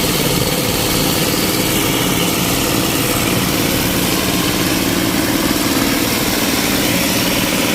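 Heavy engine of railway track-maintenance machinery running steadily and loudly, without let-up.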